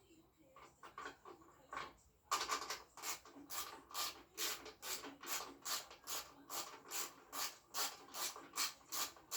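A hand tool worked in quick, regular back-and-forth strokes on the moped during reassembly, giving a rasping sound about three times a second. It starts a couple of seconds in, after a few scattered scrapes.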